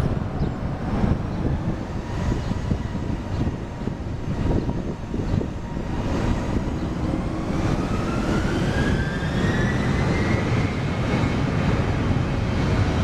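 Airliner's jet engines spooling up for the takeoff roll: a steady whine that rises smoothly in pitch from about halfway through, over a heavy rumble.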